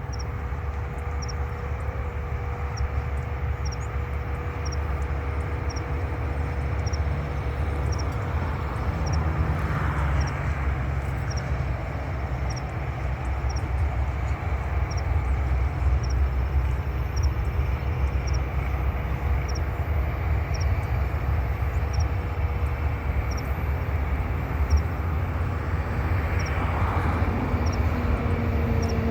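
Jet engines of an Airbus A330-900neo (Rolls-Royce Trent 7000) running, heard across the airfield as a steady low rumble with a steady whine, slowly growing a little louder. A faint high chirp repeats a little faster than once a second.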